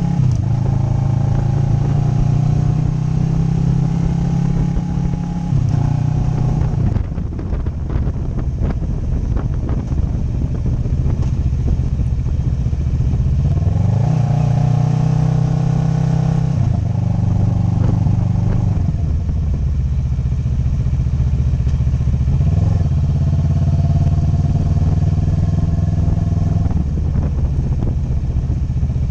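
Motorcycle engine running on the move, its pitch falling and rising several times as the throttle is rolled off and on: it drops about five seconds in, climbs back around the middle, drops again and blips once more later on.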